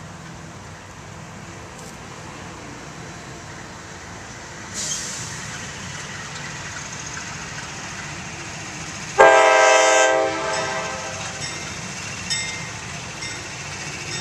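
A train passing close: a steady rumble building, a hiss joining about a third of the way in, then one short, loud locomotive horn blast of under a second about two-thirds through, followed by wheels clicking over the rails.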